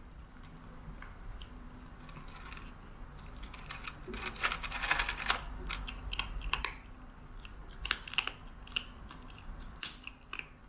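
Irregular small clicks and crunches, thickest about four to five seconds in.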